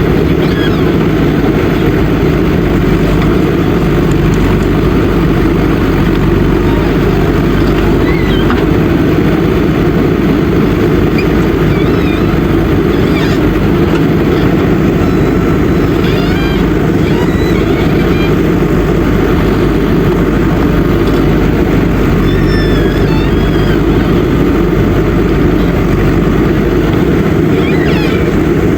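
Diesel engine of a JCB backhoe loader running steadily under work, a loud even drone, with faint high chirps here and there.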